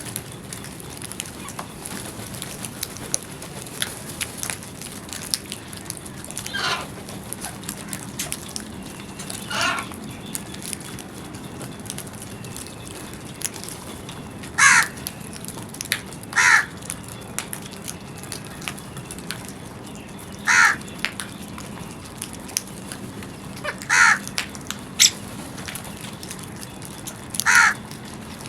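Crows cawing: single harsh caws a few seconds apart, about eight in all, coming more often in the second half, over a steady background hiss with faint small clicks.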